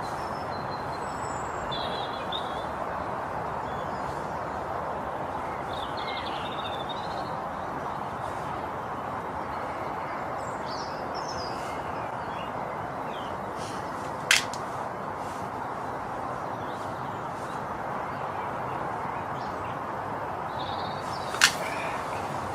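Two shots from a Brocock Concept PCP air rifle, sharp cracks about seven seconds apart, over steady background noise with birds chirping now and then.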